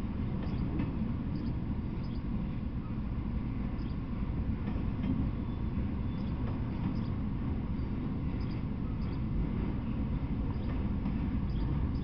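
Freight train of autorack cars rolling past: a steady low rumble with faint light clicks through it.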